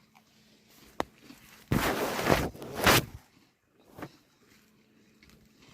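A sharp click, then a loud rustle of handling noise lasting just over a second, followed by a few faint ticks.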